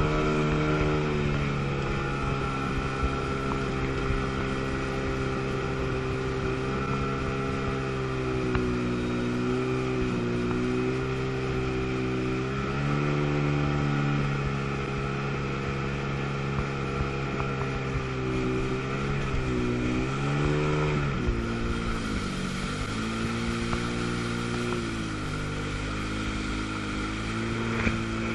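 Two-stroke jet ski engine running at a steady throttle, eased off and brought back up a few times, most clearly about two-thirds of the way through, over a hiss of water and wind.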